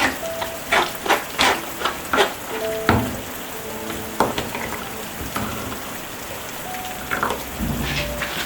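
Rain with irregular drops plinking onto surfaces, many of them ringing briefly at a pitch, over a steady hiss; a brief low rumble near the end.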